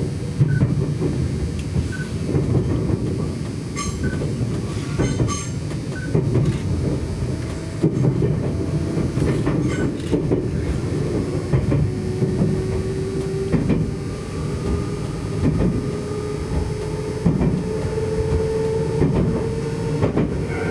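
Electric limited-express train running on its track, heard from inside the car: a steady rumble with scattered clicks and knocks. In the second half a whine rises slowly in pitch.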